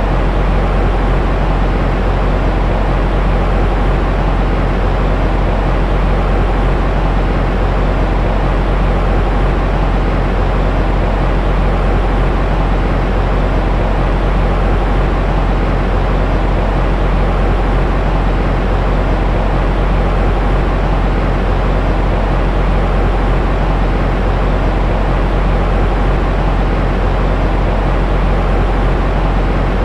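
Continuous white noise for soothing a baby to sleep: a steady, unchanging rush that is heaviest in a deep rumble, with a faint hum in it.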